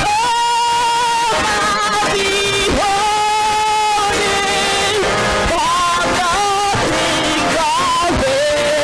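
Church choir singing with musical accompaniment, holding several long notes for more than a second each.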